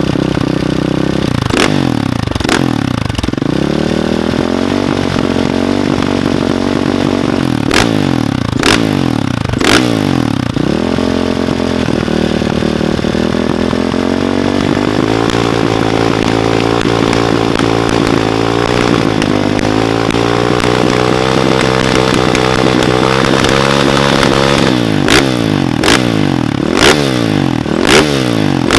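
KTM 525's single-cylinder four-stroke engine through an Akrapovic exhaust. It idles briefly, then is revved in quick throttle blips and held at slowly rising revs for a long stretch. Near the end come several more quick blips.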